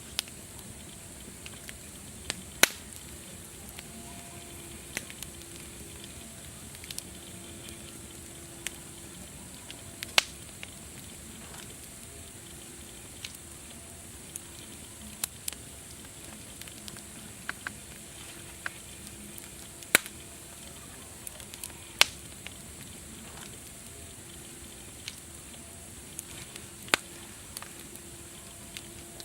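Wood fire crackling, with irregular sharp pops scattered through, a few much louder than the rest, over a steady high-pitched hiss.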